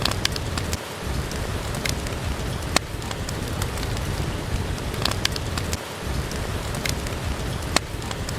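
Steady heavy rain with a deep low rumble, and scattered sharp pops and crackles from a wood fire in a fireplace.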